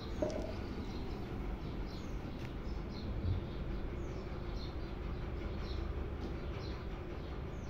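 Small birds chirping repeatedly in short, high, falling notes over a steady low background hum. A brief click comes just after the start and a soft thump about three seconds in.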